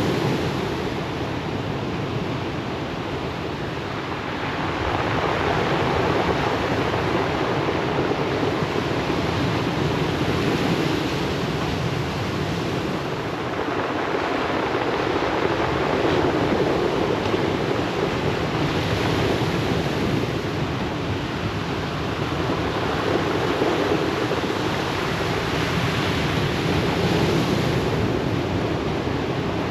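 Surf on a pebble beach: a continuous rushing wash of waves breaking and running up the stones, swelling and easing every few seconds.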